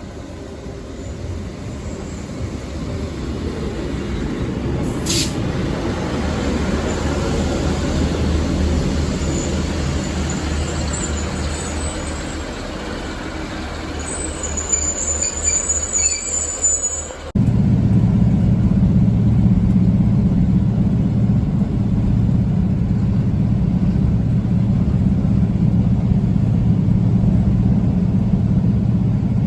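A diesel train rumbling along the track, louder as it goes, with a high squeal of wheels or brakes near the middle. Then an abrupt change to a steady, low, even engine hum.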